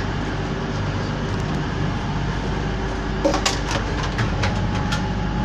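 Steady drone of a Class 221 Voyager's underfloor diesel engines idling while the train stands, heard inside the carriage, with a few short knocks and clicks between about three and five seconds in.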